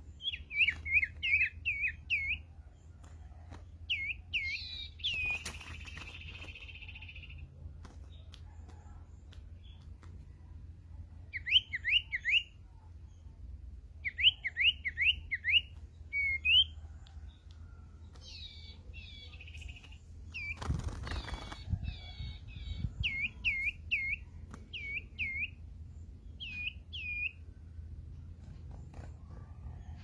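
Black-tailed sirtu calling: quick clusters of three to five sharp hooked chirps, repeated every few seconds, with a buzzy held note about five seconds in. A knock or rustle about twenty-one seconds in, over a steady low rumble.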